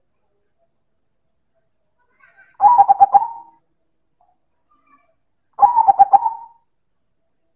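Zebra dove (perkutut) cooing, its song loud and full. Two phrases of quick staccato coos, each about a second long, come about three seconds apart.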